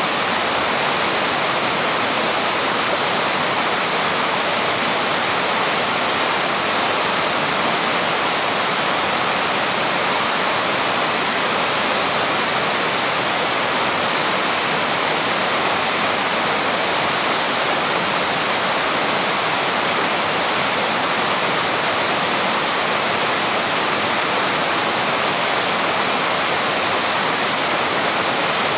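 Waterfall: water pouring steadily over the falls, an even, unbroken rush of noise with no change in level.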